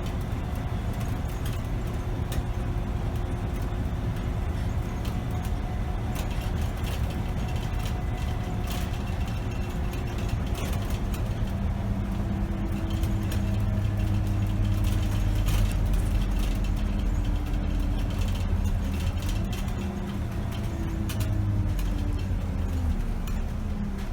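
2008 Scania K270 city bus on the move, heard from the driver's seat: its diesel engine running under way, the engine note stepping up about halfway through and gliding down near the end as road speed changes. Frequent small clicks and rattles from the bus's interior run through it.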